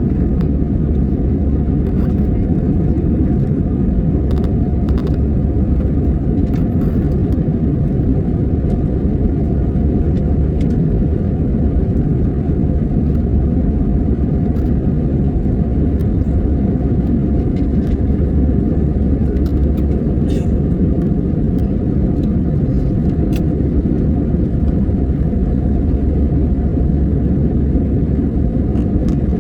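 Steady low rumble of airliner cabin noise, the engines and rushing air heard from inside the cabin, with a few faint clicks.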